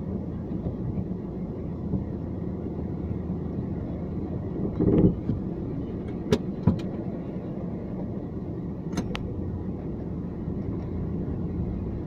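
Car being driven: steady low engine and road rumble, with a heavier thump about five seconds in and a few short sharp clicks or knocks a little later.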